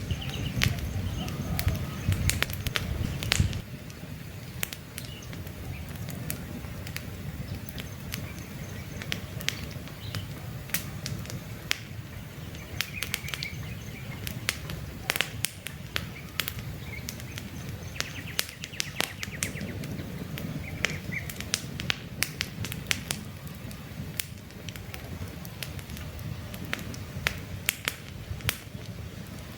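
Wood campfire crackling, with frequent sharp pops and snaps over a low steady rumble of the flames. The rumble is louder for the first few seconds and then settles. Faint bird chirps come in now and then.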